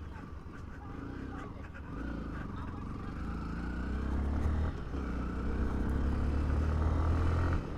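Yamaha WR155's 155cc liquid-cooled single-cylinder engine running under a rider as the bike pulls away, getting steadily louder, with a brief dip about four and a half seconds in and another near the end.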